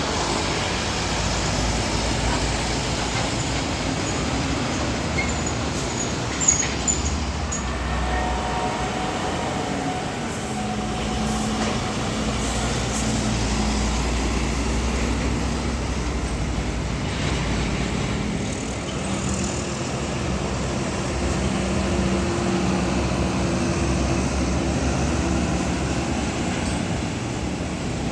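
Heavy road traffic with diesel trucks driving past, their engines rising and falling in a continuous rumble. A brief sharp knock sounds about six and a half seconds in.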